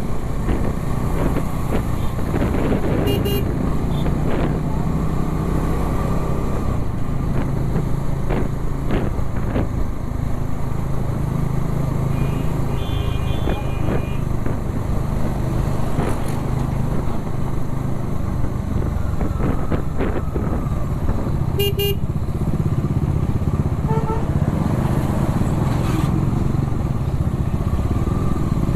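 Motorcycle engine running steadily at road speed with heavy wind rush. Short vehicle horn toots sound a few times, around 3, 13, 22 and 24 seconds in.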